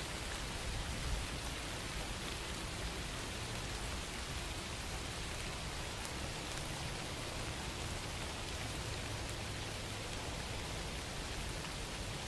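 Steady rain falling on a surface, an even hiss of many fine drops with a low rumble underneath.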